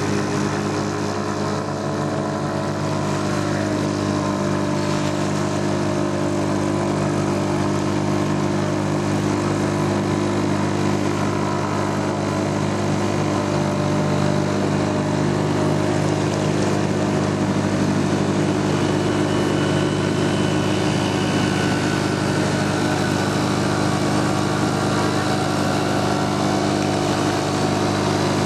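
British Seagull two-stroke single-cylinder outboard motor running steadily at a constant speed, loud and even.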